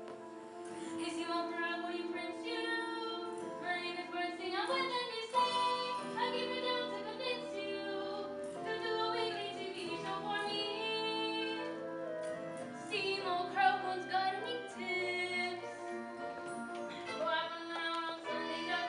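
Female singing in a stage-musical number, backed by instrumental accompaniment, with sustained sung notes and pitch glides.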